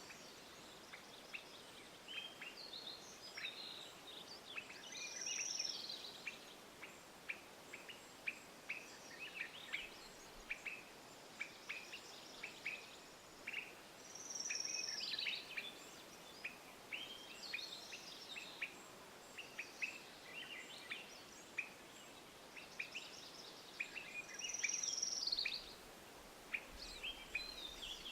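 Songbirds chirping repeatedly over the steady rush of a flowing creek. Three times, about every ten seconds, a longer call slides down in pitch.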